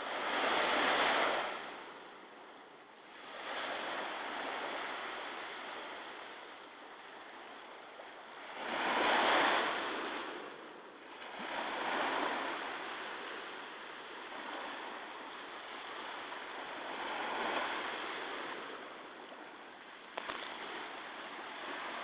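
Ocean surf from a sea still rough after a typhoon, with waves breaking and washing in one after another. The loudest surges come about a second in and about nine seconds in, with smaller ones between.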